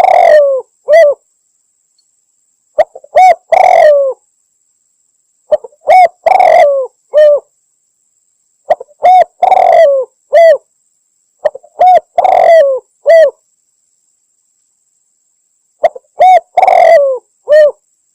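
Spotted dove cooing in repeated phrases, one about every three seconds. Each phrase is a few short coos, a longer rough middle note, then a falling coo or two. It is a recorded lure call, said to be a female calling males, used to draw in spotted doves.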